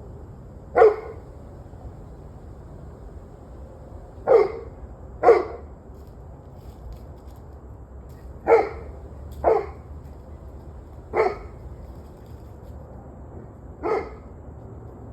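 A dog barking: seven single barks at uneven intervals of one to three seconds, over a steady low background hum.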